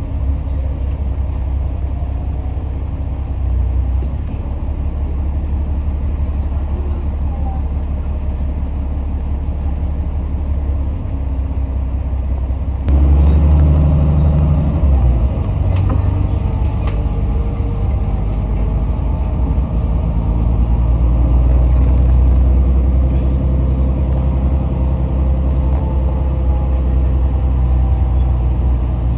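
Cabin noise of a Yutong ZK6128HG diesel city bus under way: steady engine rumble and road noise, which gets louder about 13 seconds in, with the engine note shifting up and down after that.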